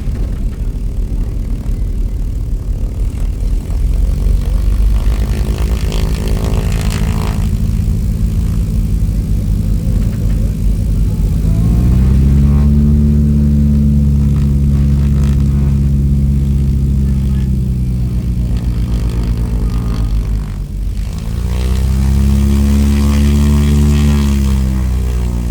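An engine running steadily, then revved up and held at higher speed twice, easing off briefly between the two.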